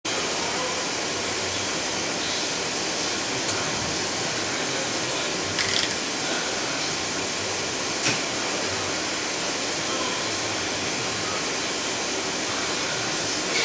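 Colchester Tornado 100B CNC lathe powered up and running idle, a steady whirring hiss. A short clatter comes about five and a half seconds in, and a single click about eight seconds in.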